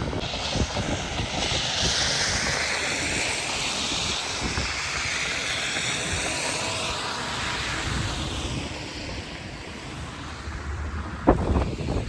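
Blizzard wind gusting, with wind buffeting the microphone in a low rumble; the hiss swells and then eases off, and a single sharp knock comes near the end.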